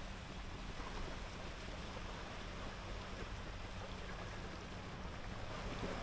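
Ocean surf washing onto a sand beach with wind buffeting the microphone: a steady, even rush, with a faint low drone underneath.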